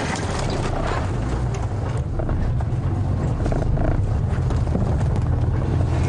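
Safari game-drive vehicle's engine running steadily as it drives through the bush, with scattered small clicks and knocks.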